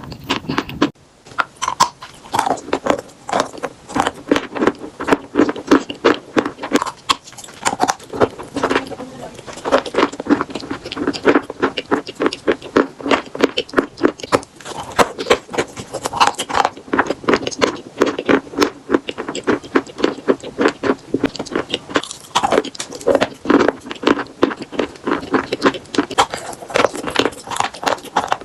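Chalk being bitten and chewed close to the microphone: a dense, continuous run of crisp crunches and crackles, several a second, with a brief lull about a second in.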